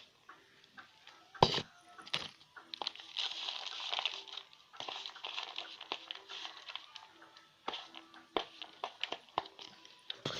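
Handling and stirring of a Mie Sedaap cup of instant noodles: scattered clicks and scrapes of the utensil against the cup with rustling, and one sharp knock about a second and a half in.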